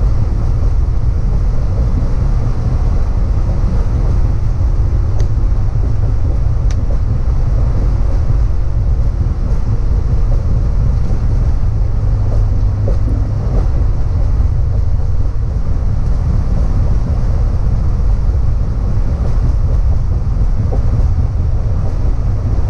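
Steady, loud low rumble of a semi-truck underway: engine and road noise, with some wind.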